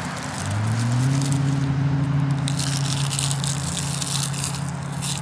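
Crunchy bites and chewing of fried mojarra wrapped in crisp seaweed, the crackle strongest in the second half. Under it a steady low drone rises in pitch about a second in and then holds.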